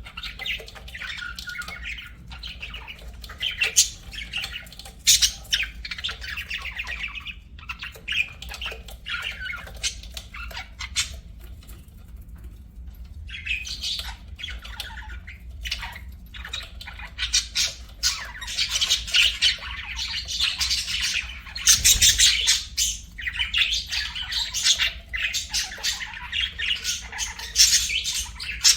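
Budgerigars chattering: rapid, scratchy warbling and chirping with frequent squawks, busiest in the second half, with a couple of short lulls.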